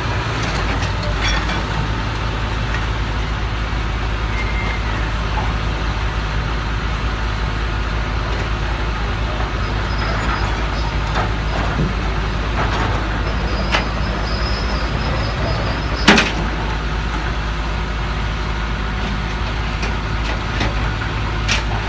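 Heavy truck's diesel engine running steadily, with a few faint knocks and one sharp knock about sixteen seconds in.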